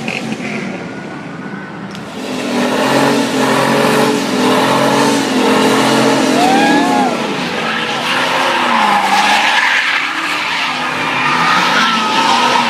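A truck doing a burnout: the engine revs and wavers under load while the tyres squeal and skid. It gets much louder about two seconds in and stays loud.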